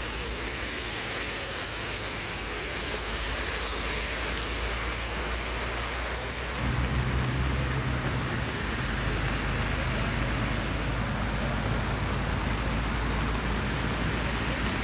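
Steady outdoor rain noise, with a low rumble joining about six and a half seconds in and continuing.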